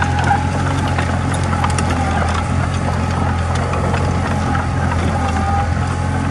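Komatsu D20A bulldozer's diesel engine running steadily, with light clicks over it.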